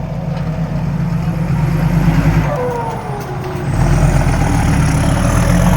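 Diesel engine of a loaded dump truck pulling away under load, running hard; about four seconds in the engine note steps up and gets louder.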